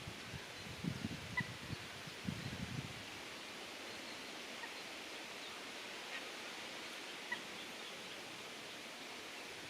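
Mallards, faint: two short bouts of rapid low sounds from the ducks in the first three seconds, over a steady background hiss, with a few tiny high chirps from another bird.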